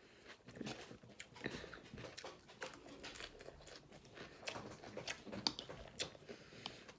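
A person chewing crunchy salad greens close to the microphone: a steady run of small, irregular crunches and mouth clicks.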